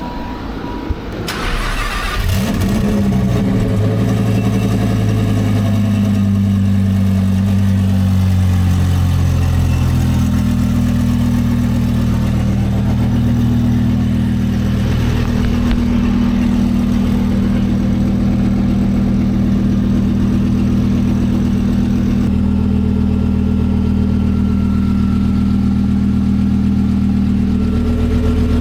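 Twin-turbo Lamborghini Huracan 5.2-litre V10 starting up about a second in, then running at a steady speed with a loud, low drone.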